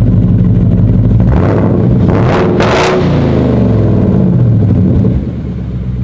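2021 Mustang GT's 5.0 V8 running through its still-resonated exhaust, before an X-pipe is fitted. It idles loudly, is blipped up once about two seconds in, and falls back to idle.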